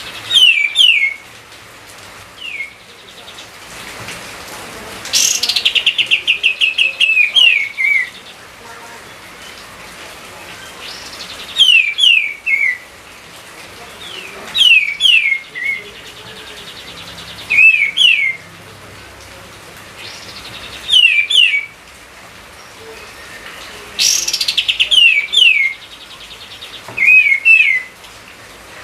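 A songbird singing loud, repeated phrases of quick downward-sliding whistles, one phrase every few seconds. Some phrases open with a fast rattling trill.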